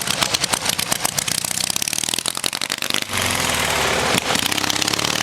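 Ural motorcycle's flat-twin engine running with rapid, even firing pulses, settling into a steadier idle about three seconds in.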